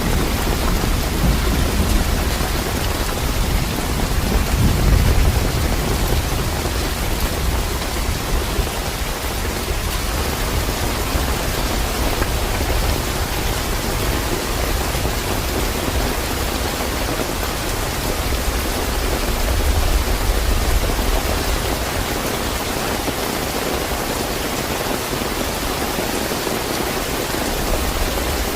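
Steady, fairly heavy rain falling, with low rolling thunder that swells about five seconds in and again about twenty seconds in.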